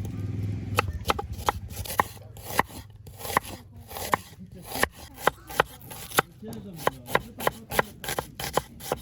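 Knife chopping food on a board, sharp irregular strokes about two to three a second. A low hum fades out about a second in.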